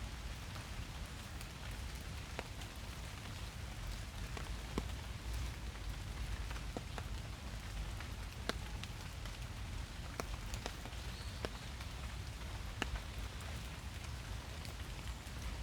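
Steady rain falling in a forest, with scattered individual drops ticking sharply close by over a low steady rumble.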